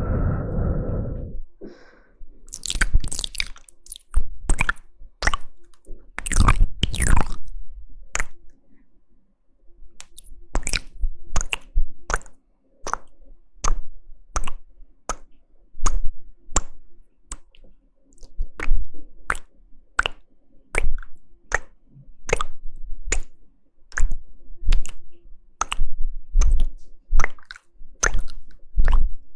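ASMR mouth sounds close to the microphone: wet tongue and lip clicks and smacks. It opens with a low, muffled sound, then a few longer wet smacks, then a steady run of sharp clicks, about one to two a second.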